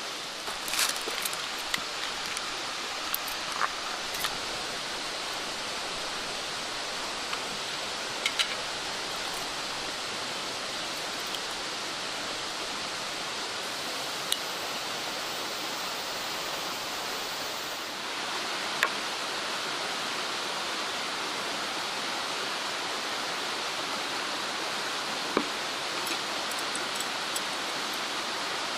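Steady rushing of a mountain stream flowing close by, with a few short, light clicks and knocks scattered through it.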